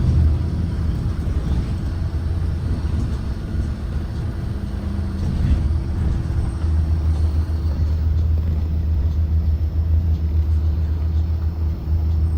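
Engine of a Blue Bird Vision propane school bus running with a steady low rumble. It eases off a little in the first few seconds, then holds steady again from about halfway through.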